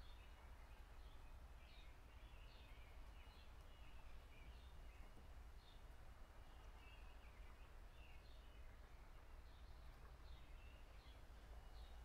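Faint outdoor ambience: distant birds chirping in short, scattered calls over a low steady rumble, with a thin steady high tone underneath.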